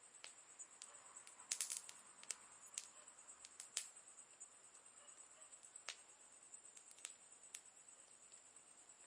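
Campfire wood crackling faintly: scattered sharp pops and snaps at irregular intervals, with a quick cluster of them about one and a half seconds in, over a faint steady high hiss.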